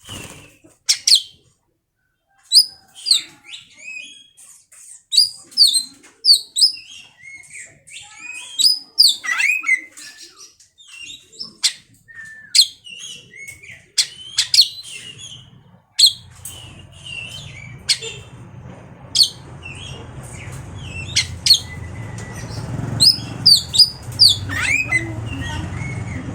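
Oriental magpie-robin (kacer) singing a rapid run of sharp whistles and chirps. About two-thirds of the way through, a steady low hum comes in beneath the song.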